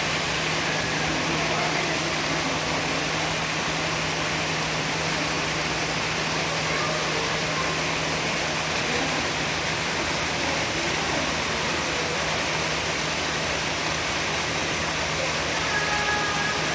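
Waterfall rushing steadily, with a steady low hum underneath.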